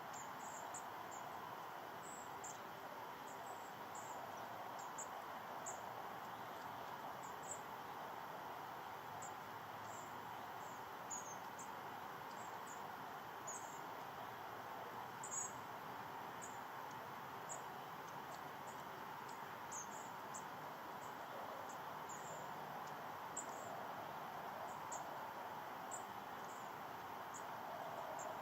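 Long-tailed tits giving many short, thin, very high calls, scattered irregularly over a steady background hiss.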